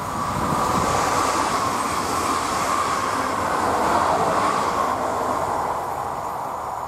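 Electric multiple-unit passenger train of two coupled EN62A units running past on the track: steady wheel-and-rail running noise that swells as it approaches, is loudest about four seconds in as it goes by, then fades away.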